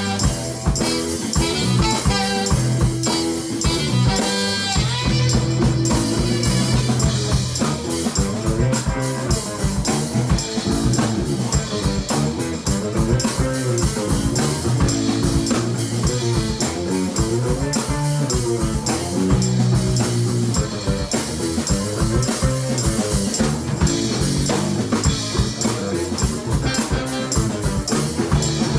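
Live rock band playing an instrumental passage: electric guitar over a drum kit and bass, with a steady beat.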